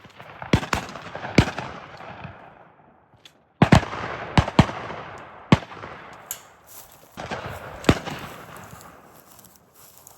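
Shotguns firing at flushed pheasants: about a dozen sharp reports at irregular intervals, some in quick pairs. Each report trails off in a long rolling echo.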